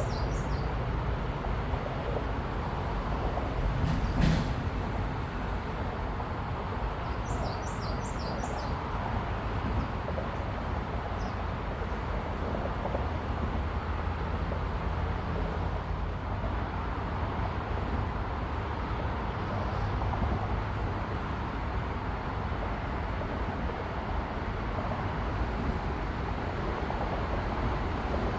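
Steady outdoor background noise with a low rumble and no train passing, with a short knock about four seconds in and brief bird chirps at the start and about eight seconds in.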